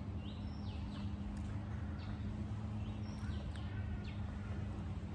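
Birds chirping a few times in short gliding calls over a steady low hum.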